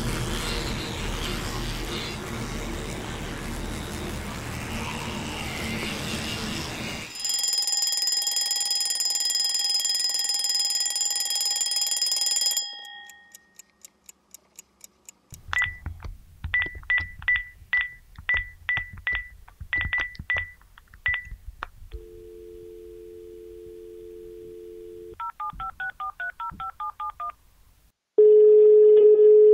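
A collage of telephone sounds: after a noisy stretch, a steady high electronic tone, then faint clicks and about a dozen short beeps. Then a landline dial tone, a quick run of touch-tone (DTMF) key tones, and in the last second or so a loud busy signal.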